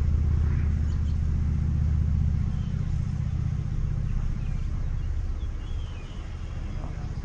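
A motor vehicle's engine idling, a steady low pulsing rumble that eases briefly about six seconds in, with a few faint bird chirps above it.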